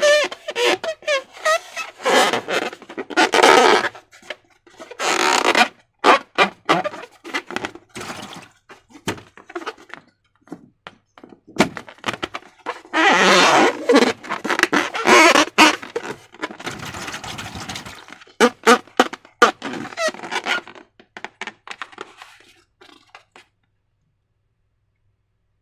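Slime being squished and stretched by hand: irregular wet squelches, sticky crackles and sharp clicks in uneven bursts.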